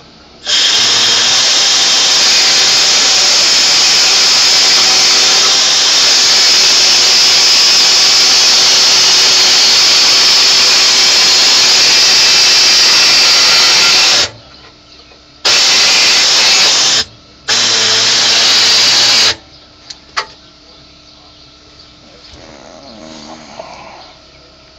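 Air-powered die grinder running at full speed for about fourteen seconds, then in two short bursts of a second or two, trimming a hole in a truck dash panel. A couple of sharp clicks follow.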